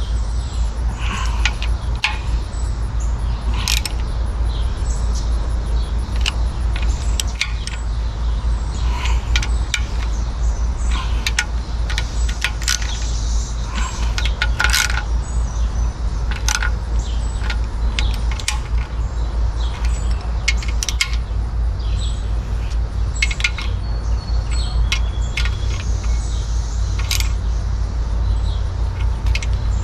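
Scattered metallic clinks and taps at irregular intervals, as of hand tools and small metal parts handled during engine work, over a steady low rumble.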